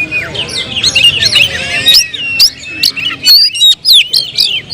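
Oriental magpie-robins (kacer) singing, several at once: a dense stream of fast, varied whistled phrases mixed with sharp, harsh notes.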